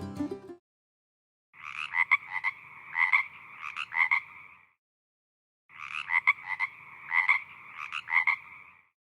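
A frog calling in two bouts of about three seconds each, a second apart, each a buzzing croak with several louder pulses.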